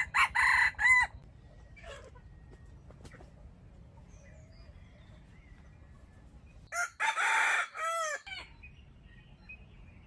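Rooster crowing twice, two short multi-part crows about six seconds apart.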